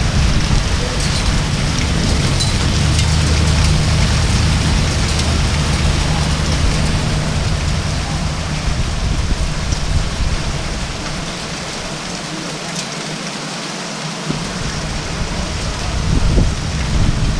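Heavy rain pouring down steadily, with a low rumble underneath that drops away for a few seconds past the middle and then comes back.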